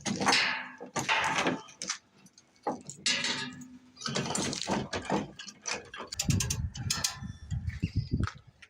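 Lumber being handled and set in place: boards scraping and sliding with sharp knocks. A quick run of low thumps comes near the end.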